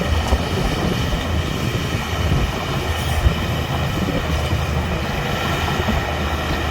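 Heavy diesel earthmoving machinery running steadily, a constant engine drone with a strong low hum, and one brief knock a little past three seconds in.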